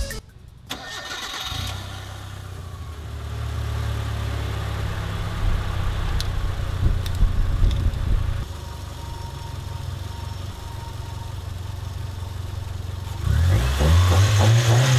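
A 1999 Mitsubishi Mirage's 1.5 L 4G15 four-cylinder engine, jump-started because its battery is old, starts about a second in and idles steadily. Near the end it is revved, the pitch climbing and the sound growing louder.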